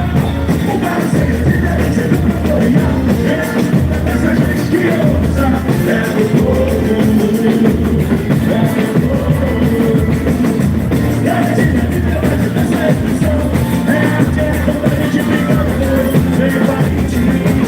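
Live boi-bumbá toada: a singer over a band and heavy drums keeping a steady, driving beat.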